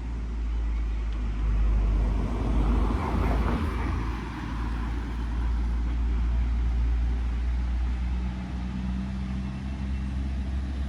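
Road traffic: a vehicle passes close, its engine and tyre noise swelling to a peak about three seconds in and fading, over a steady low engine rumble. A steadier engine hum comes in near the end.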